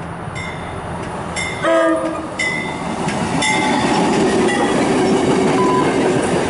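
MARC commuter train approaching and sounding its horn in one short blast just under two seconds in, with short high ringing notes about once a second. The train's rumble and wheel noise grow louder from about halfway through as it nears.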